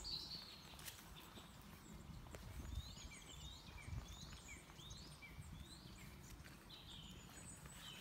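Faint birdsong, a run of short repeated chirps starting a couple of seconds in, over soft footsteps on a wet, muddy track.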